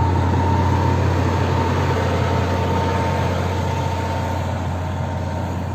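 A heavy engine running steadily with a deep hum and a faint steady whine, easing off slightly toward the end.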